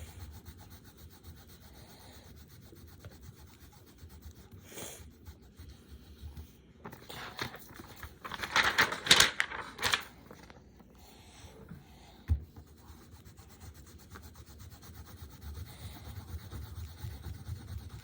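Pencils rubbing and scratching on paper during colouring, with a louder burst of fast scribbling about nine seconds in and a single knock a few seconds later.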